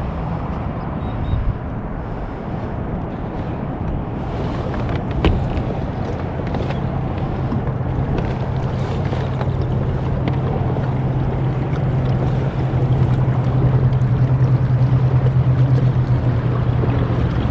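Wind buffeting the microphone over open water, with waves lapping against a kayak hull; the low rumble grows louder about two-thirds of the way through.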